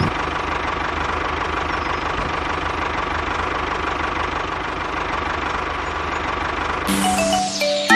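Small engine running steadily at an even speed, with rapid fine firing pulses. Music comes in near the end.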